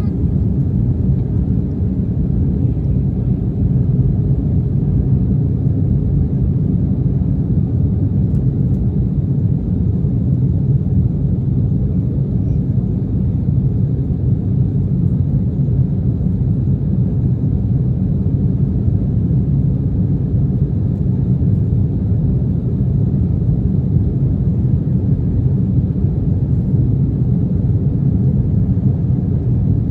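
Steady low rumble of an Embraer 175 airliner's cabin, with its CF34 turbofan engines and airflow, running evenly with no change in level.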